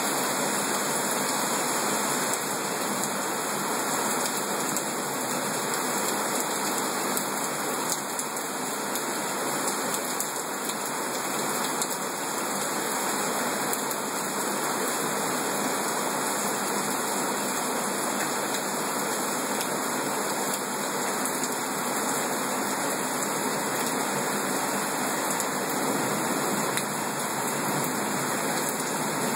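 Heavy rain pouring down hard, a steady, even hiss that doesn't let up.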